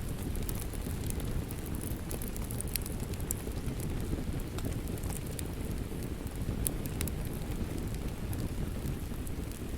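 Wood fire in a fireplace crackling: scattered sharp pops and snaps over a steady low rumble of burning.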